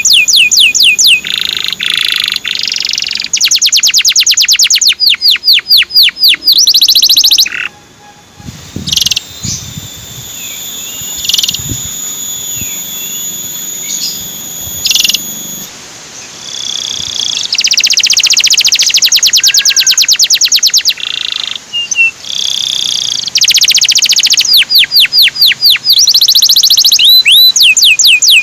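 Male canary singing: long, very fast trills and rolls of repeated notes, broken by a quieter middle stretch of long held whistles before the fast trilling comes back.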